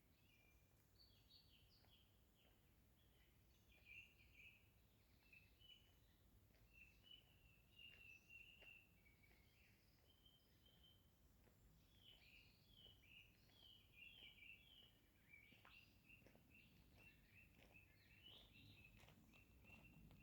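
Faint forest dawn chorus of small birds: many short chirps and calls, close together, over a low background hum.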